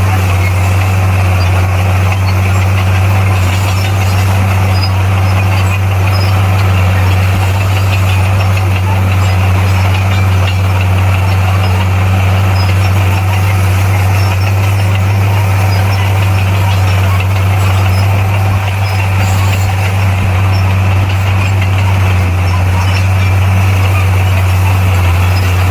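Heavy diesel engine of earthmoving equipment running steadily as a constant low drone, its pitch not changing.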